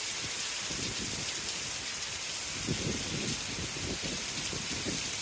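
Heavy rain pouring down in a downpour, a steady, dense hiss with no let-up.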